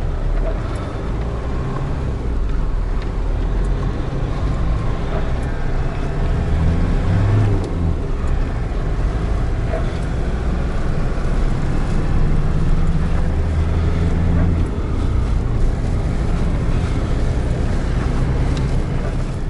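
GAZelle Next van's engine heard from inside the cab, pulling under load with revs rising and falling as it climbs a snowy hill with the drive wheels slipping.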